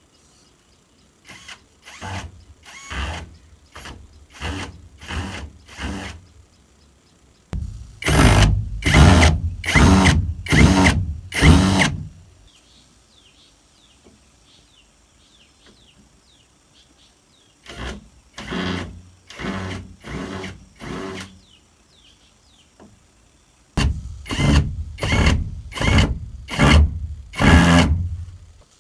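Hand tool working wood in rhythmic strokes, about two a second, in four bouts separated by short pauses.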